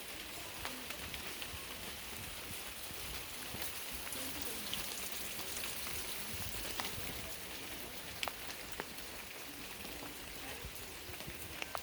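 Steady rain falling, a continuous hiss with many single drops ticking sharply on hard surfaces.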